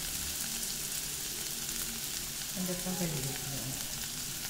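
Chopped onion, green chilli, ginger and garlic sizzling in hot coconut oil in a pan, a steady frying hiss as they begin to sauté.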